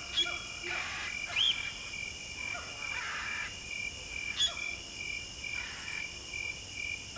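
Crickets and other insects chirping: a fast steady chirp and a high buzz that starts and stops every couple of seconds, with a few short bird calls mixed in.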